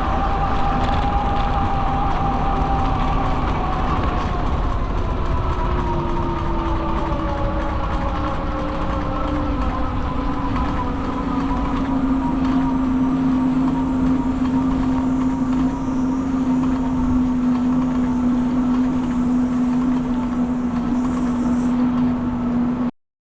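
A loud, steady rumble with a droning pitch that slides down over the first dozen seconds and then holds steady, cutting off suddenly near the end.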